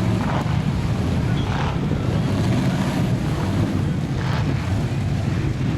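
Big mud truck engines running steadily with a low rumble, with wind buffeting the microphone.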